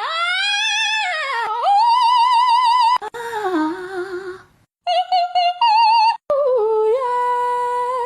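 A high singing voice holding long, wavering notes with vibrato. It slides down and back up between pitches in several phrases, with short breaks between them.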